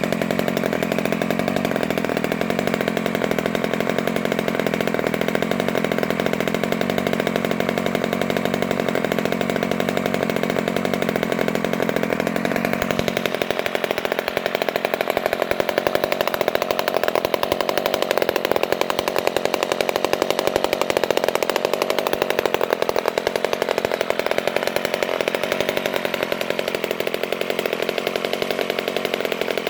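Quadra 35 cc two-stroke model-aircraft engine with points ignition running steadily; about thirteen seconds in its note changes abruptly and it runs a little louder for a while.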